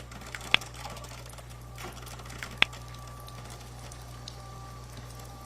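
Cuisinart Premium single-serve K-cup coffee maker heating up and starting to brew: a steady low hum with two sharp clicks, about half a second and two and a half seconds in, and a faint thin whine from the second click on.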